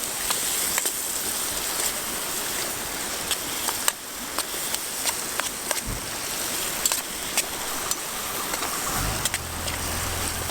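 Vegetables sautéing in olive oil in a titanium pan over a campfire: a steady sizzling hiss with frequent sharp pops and crackles. A low steady hum comes in near the end.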